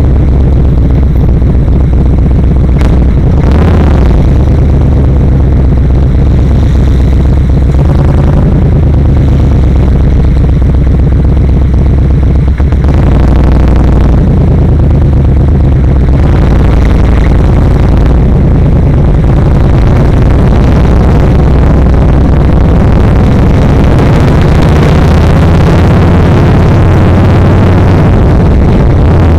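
Yamaha XVS1300's V-twin engine running under way, its pitch shifting several times as the speed changes, with a brief drop about twelve seconds in followed by rising revs.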